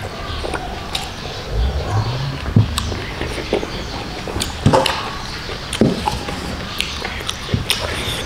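Close-miked chewing and lip smacking of someone eating rice with his mouth closed, with irregular wet clicks and smacks scattered through.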